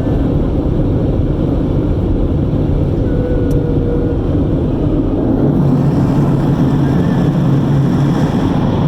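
Car wash machinery running with a loud, steady low rumble that grows fuller about five and a half seconds in.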